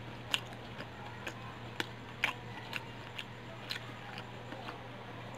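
Close-up chewing of thickly battered fried chicken with the mouth closed: short, wet mouth clicks about twice a second, uneven in strength, over a low steady hum.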